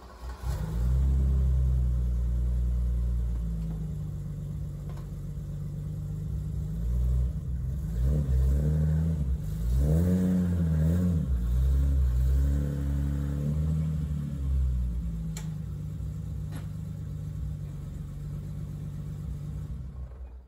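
BMW E30's engine running, with revs rising and falling several times in the middle as the car is driven backward up onto ramps under load. It settles back to a steady idle and cuts off suddenly at the very end.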